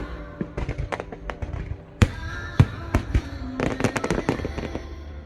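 Aerial fireworks going off in a rapid run of crackling pops and bangs. Two louder booms come about two seconds in and half a second later, and a dense patch of crackle follows near the end.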